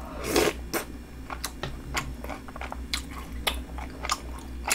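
Close-up chewing and crunching of a mouthful of snack bingsu, crunchy snacks and ice in milk, with many sharp, irregular crunches.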